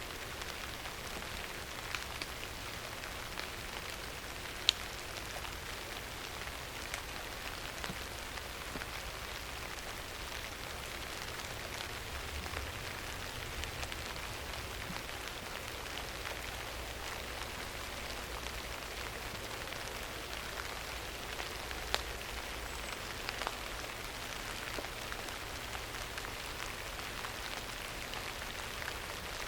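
Steady rain falling: an even hiss with scattered sharper drop ticks, a couple of them louder.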